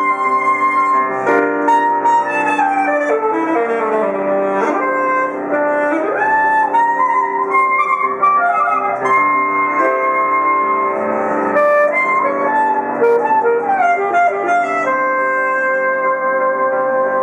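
Alto saxophone and piano playing a contemporary sonata: fast runs and sliding pitch bends in the saxophone over piano, with some longer held notes.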